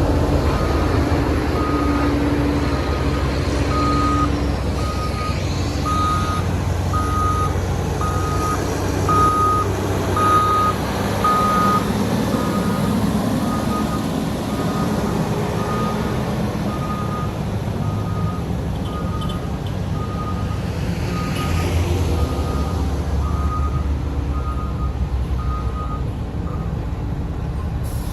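A reversing alarm on heavy construction equipment, beeping steadily at one pitch about once a second over the low, continuous running of a diesel engine.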